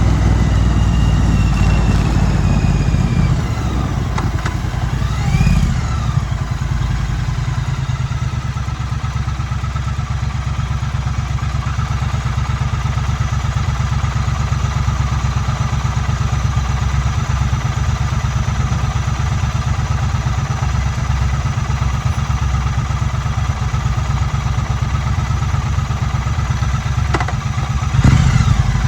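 2016 Triumph Street Twin's 900 cc parallel-twin engine running steadily through the ride, with a single sharp click and a short rise in engine sound near the end.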